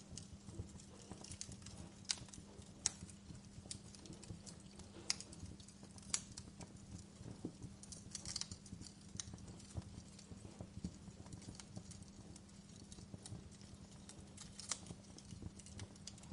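Wood fire crackling in a fireplace: irregular sharp pops and snaps, some louder than others, over a soft steady hiss and a steady low hum.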